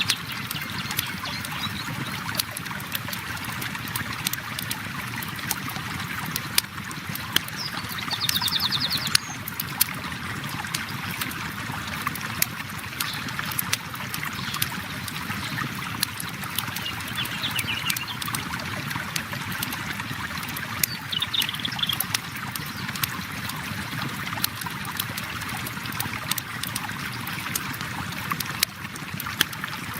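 Steady flow of river water with a crackling campfire popping and snapping throughout, and a few short bird chirps and trills now and then.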